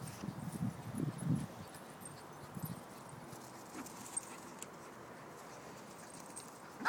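A young dog making low, grumbling play noises: several short ones in the first second and a half, and one more a little later.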